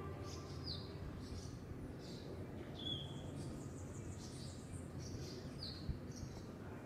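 Birds calling: short, high chirps that slide down in pitch, repeated roughly once a second over faint outdoor ambience.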